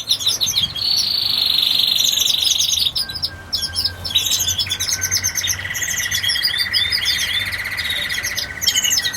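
Many birds chirping and calling at once, with long buzzy trills held under the chirps: one for about two seconds near the start, another from about halfway through.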